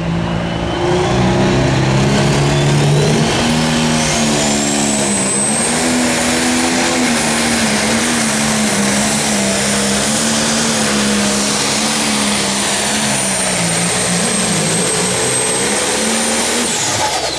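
Pro Stock pulling tractor's turbocharged diesel engine running at full power down the track, its turbo whine climbing over the first few seconds to a high, steady scream. Near the end the whine and engine note fall away together as the run ends.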